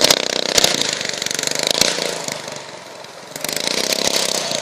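Off-road buggy engine running, dipping in level about halfway through and then picking up again.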